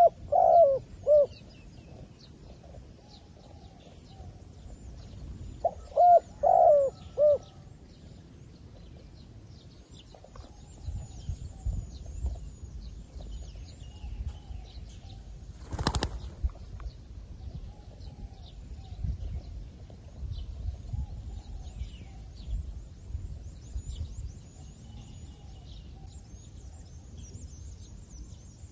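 A captive decoy zebra dove cooing, with two bursts of short, quick coo notes, one at the start and one about six seconds later. Small birds chirp faintly throughout, and there is a single sharp knock about 16 seconds in.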